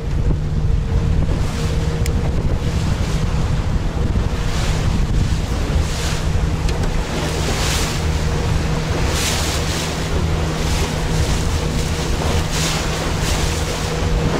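Strong wind buffeting the microphone with waves splashing against a small boat, in repeated hissing surges, over a faint steady hum.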